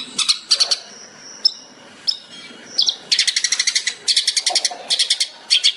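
Long-tailed shrike (cendet) singing: a few short whistled notes, then from about three seconds in, bursts of very fast rattling repeated notes.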